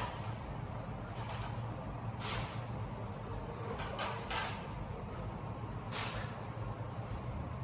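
A steady low hum with several short swishing or scraping noises over it.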